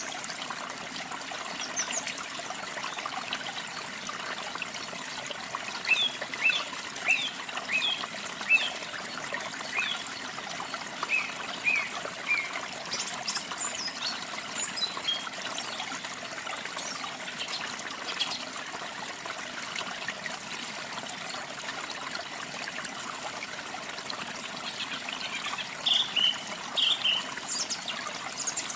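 Steady trickling, running water, with a small songbird chirping in quick runs of short notes: one run about six to twelve seconds in and another near the end.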